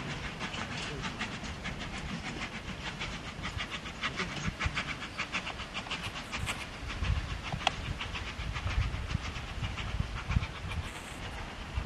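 Narrow-gauge steam train of the Isle of Man Steam Railway running, with a fast, even rhythmic beat and a deeper rumble that grows stronger about halfway through.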